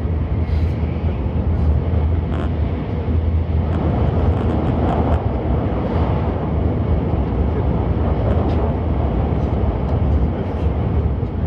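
Cabin noise of a Nozomi Shinkansen running at speed, heard inside the car: a steady low rumble under a rushing hiss, with a few faint clicks scattered through it.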